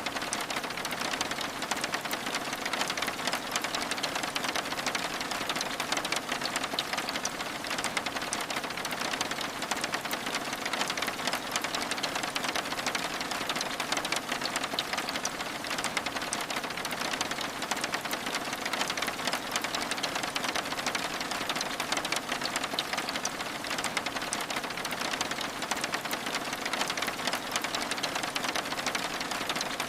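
Steady rain falling on window glass: an even hiss made of countless fine drop ticks, unchanging throughout.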